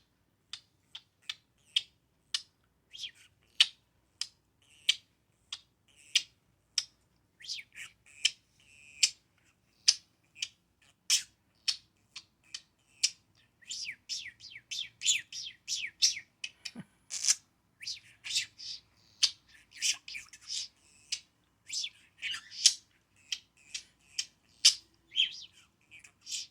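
Male budgerigar chirping and squawking in short, sharp high calls, sparse at first and then coming quickly one after another from about halfway through: budgie courtship chatter.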